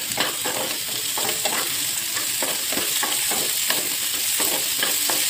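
Sliced onions, tomatoes, garlic and whole spices sizzling steadily in hot oil in a nonstick pan, while a wooden spatula stirs and scrapes through them about three times a second.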